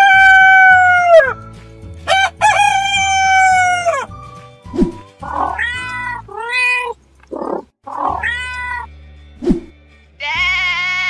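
Animal sound effects one after another over background music: a rooster crowing twice, a cat meowing several times, then a sheep bleating near the end.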